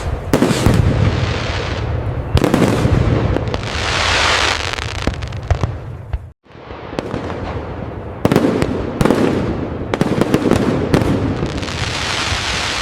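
Fireworks display: repeated sharp bangs of bursting shells over dense, continuous crackling. The sound cuts out for a moment about halfway, then carries on.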